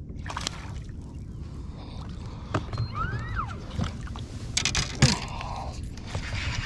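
Handling noises on a fishing boat over a steady low rumble: scattered knocks and clicks, a cluster of knocks about four and a half seconds in, and a sharp thump just after five seconds, the loudest sound.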